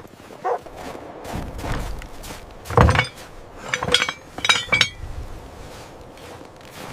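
Several sharp clinking impacts, each with a brief ring. The loudest comes about three seconds in, followed by a quicker run of four more about a second later.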